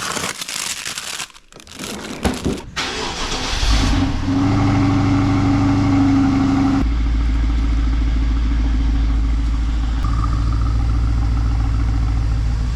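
A gusty rushing noise, then a little under 4 s in the BMW 650i's engine comes in and runs steadily. About three seconds later it settles to a deeper, steady note.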